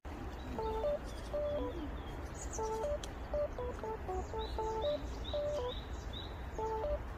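Wild birds singing: short, clear whistled notes stepping between a few pitches, with a run of quick high chirps in the middle, over a steady low outdoor rumble.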